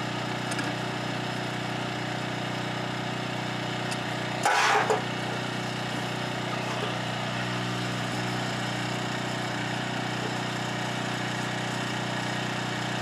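Small engine of a portable air compressor running steadily, with a half-second burst of hiss about four and a half seconds in, as air escapes while inflating a tyre.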